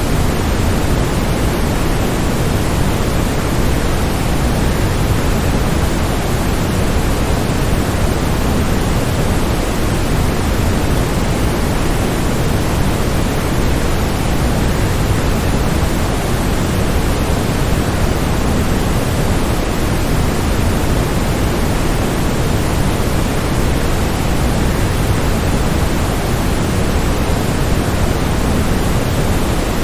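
Waterfall, its falling water making a steady, unbroken rushing noise that is heaviest in the low end.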